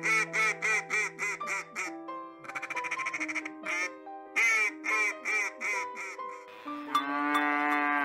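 A duck quacking in runs of short, repeated quacks, with one fast burst partway through. A long, drawn-out animal call comes near the end.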